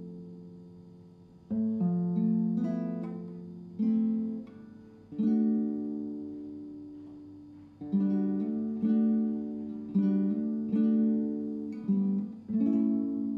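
Acoustic guitar music: single strummed chords, each left to ring and fade before the next, about every one to two seconds.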